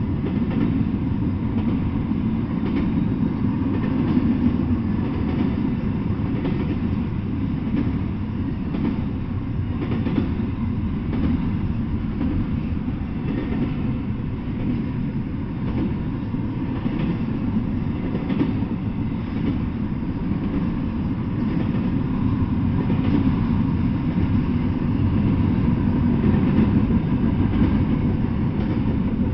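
Double-stack intermodal container freight train rolling past: a steady rumble of steel wheels on the rails with faint, repeated clacks.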